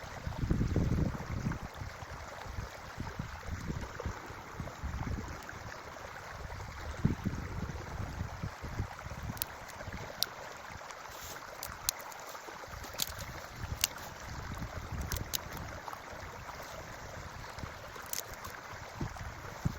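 Forest creek running steadily, with wind gusting on the microphone. Scattered sharp ticks in the second half.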